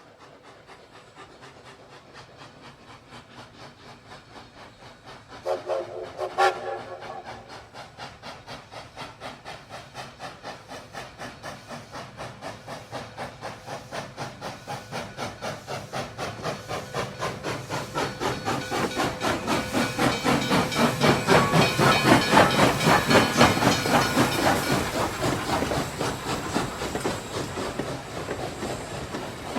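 Steam locomotive chuffing in a rapid, even rhythm that grows louder, peaks well past the middle, then eases off. A short steam whistle blast sounds about six seconds in.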